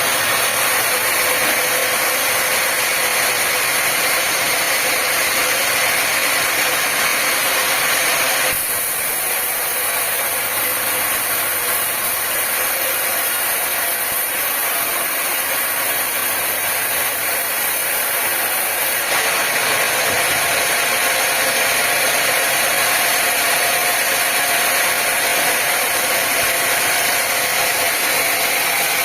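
Sawmill machinery running with a loud, steady mechanical noise that shifts abruptly twice, about 8 seconds in and again about 19 seconds in.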